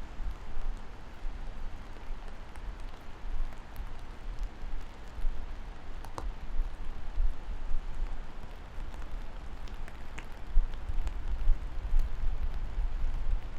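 Steady rain falling, with scattered small drop ticks over an even hiss and a deep low rumble underneath that grows stronger about ten seconds in.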